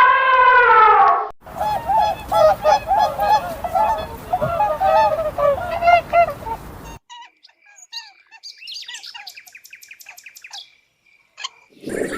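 A sequence of animal calls. A pitched call with many harmonics ends about a second in. Then a rapid run of loud, repeated short bird calls lasts about five seconds. After a sudden cut, fainter high chirping and trilling of small birds follows.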